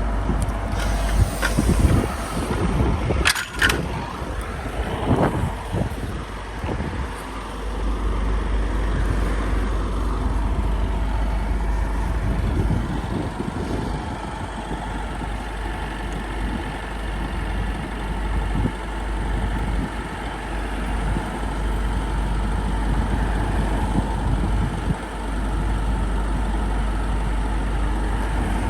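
Scania Citywide LE CNG city bus running with a steady low rumble, with a brief sharp noise about three and a half seconds in.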